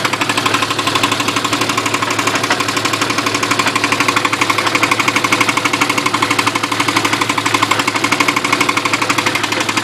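1992 Jeep Cherokee XJ engine running with a steady, rapid metallic clanking. The clank comes from inside the engine and persists although the fluids are full and oil pressure reads normal.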